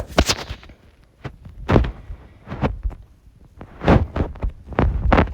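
Mini hockey sticks in knee-hockey play: a string of sharp, irregularly spaced knocks and thuds as sticks strike the ball and the floor.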